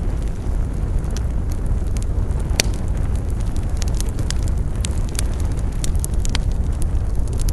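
Wood fire burning with a steady low roar and frequent sharp pops and crackles at irregular intervals, one louder snap about two and a half seconds in.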